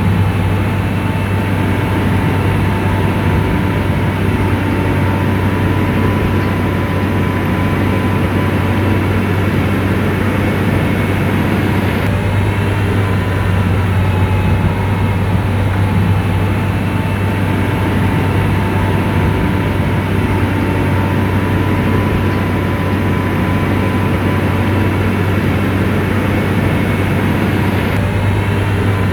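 Motor grader's diesel engine running at a steady speed, a constant low drone with no change in pitch.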